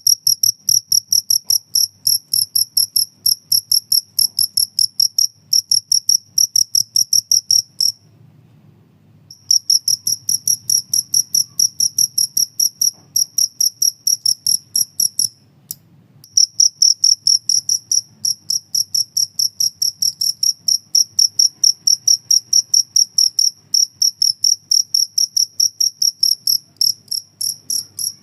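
Cricket chirping: a fast, even run of high-pitched pulses, about three a second, which stops briefly twice.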